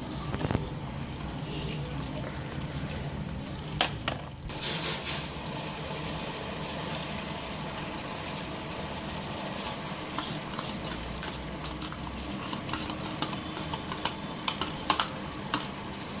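Biryani masala frying and sizzling in a pot while it is stirred, with the spoon clicking against the pot. The sizzle flares up about four and a half seconds in.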